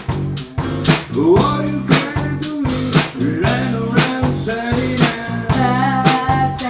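Live band playing blues-rock: a lead guitar line with bent, wavering notes over a drum kit's steady beat and bass.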